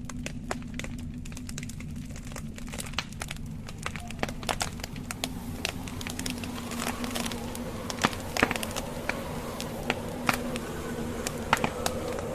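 Wood fire crackling in a fireplace: irregular snaps and pops of burning logs over a steady low rumble, growing louder and more frequent after a few seconds.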